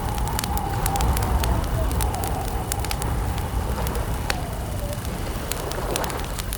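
Wood campfire crackling, with irregular sharp pops and snaps over a low steady rumble. A faint wavering tone runs underneath.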